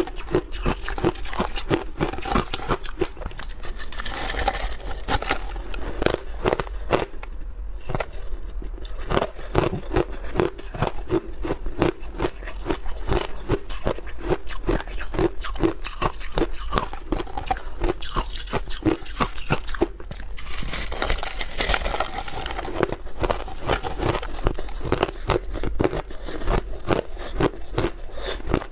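A person biting and chewing hard block ice close to the microphone: dense crunching and cracking in a steady chewing rhythm of about two strokes a second, with louder stretches of crunching twice, near the start and about two-thirds of the way through.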